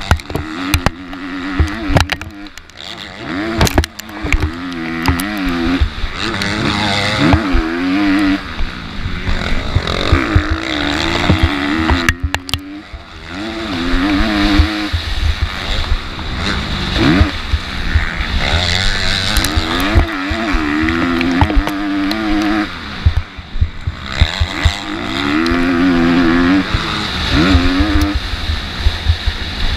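MX2 motocross bike engine racing, revving up and dropping back over and over as the rider works the throttle and gears, with scattered sharp knocks.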